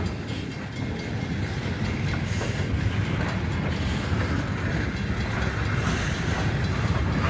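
Loaded coal train cars rolling past, a steady rumble of steel wheels on the rails.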